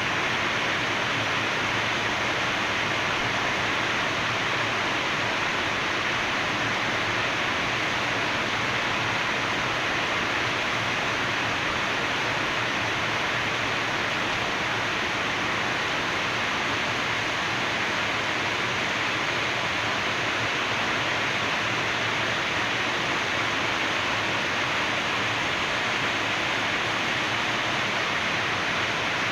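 Steady rain falling: an even hiss with no single drops, thunder or other sounds standing out.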